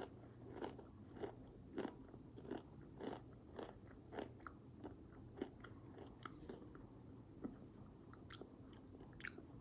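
A person chewing a salted potato chip, with crisp crunches roughly every half second that grow fainter in the second half.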